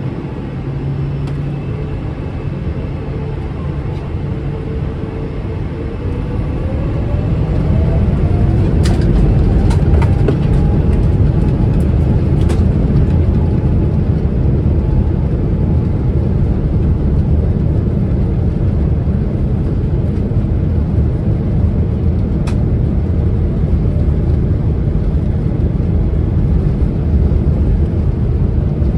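Boeing 777-300ER's GE90 engines spooling up to takeoff thrust, heard inside the cabin: a whine rising in pitch about five seconds in as the rumble grows louder, then a steady loud roar of the takeoff run with a few sharp rattles and clicks from the cabin.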